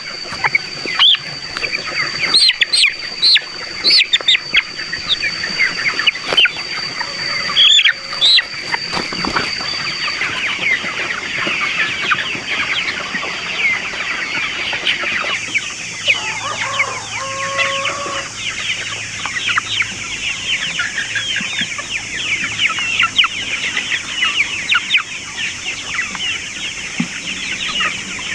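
A large flock of chickens calling at once: many overlapping short cheeps and clucks with no break, and now and then a single lower call standing out. A steady high whine runs underneath for the first third and then stops.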